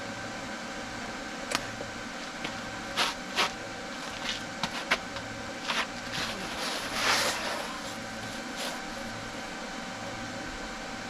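Steady machine hum with scattered sharp clicks and knocks, the loudest near three and three and a half seconds in, and a short hissing swell about seven seconds in.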